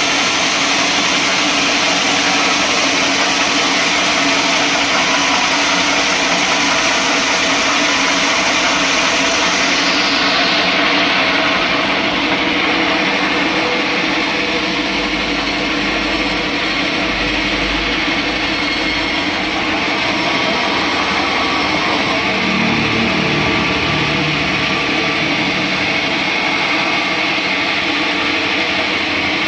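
Sawmill saw running steadily, a loud machine hum and hiss; the highest part of the hiss drops away about ten seconds in.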